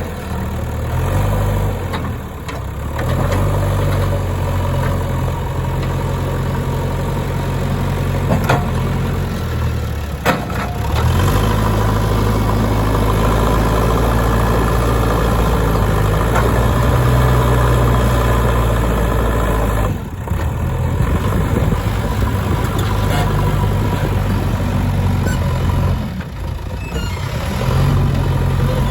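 Diesel engine of a JCB 3DX backhoe loader running as it works, its speed rising and falling with the load. A couple of sharp knocks come about a third of the way in.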